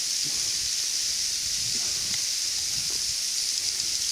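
Steady high-pitched hiss, with faint voices now and then.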